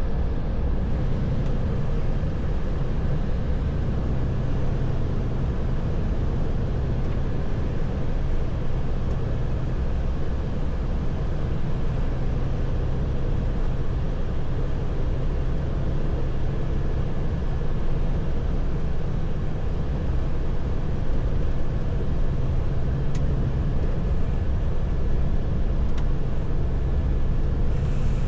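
A truck's diesel engine and its tyres on the road, a steady low drone with a constant hum as it cruises at an even speed.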